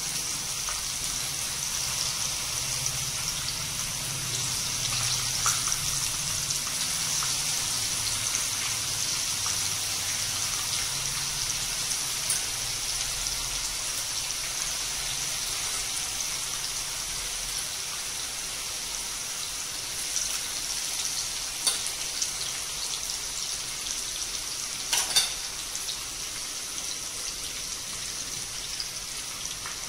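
Marinated chicken pieces frying in hot oil in a kadai, a steady sizzle with a few short sharp clicks about two-thirds of the way through.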